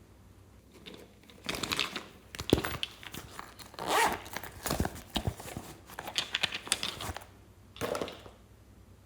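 Slime being squeezed and stretched by hand, giving several bursts of crackling and popping.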